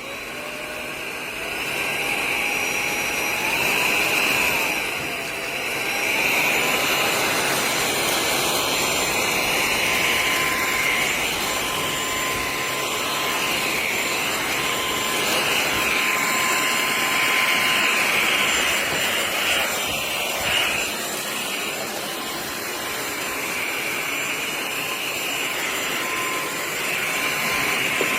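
MBYULO cordless stick vacuum starting up and running: a whine that rises over the first couple of seconds as the motor spins up, then holds steady over a loud rush of air.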